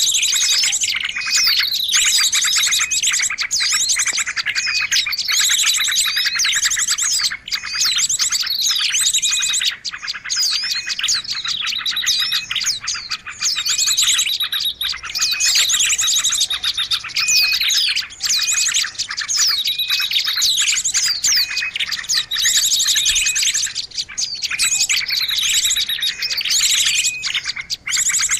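Bird-lure recording of several small songbirds calling at once: dense overlapping high chirps, quick pitch sweeps and fast trills with hardly a gap, a pattern that comes back every few seconds.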